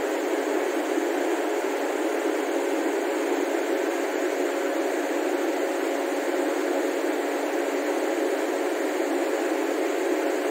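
Steady, even drone of a stationary train's running equipment, with a faint steady tone running through it.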